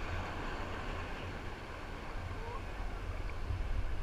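Steady rush of waterfall water, with low wind rumble on the microphone.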